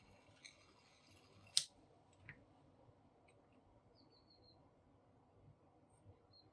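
A single sharp click about a second and a half in, then a fainter click, as small plastic or metal laminator parts are handled in a quiet room. A few faint high chirps follow near the middle.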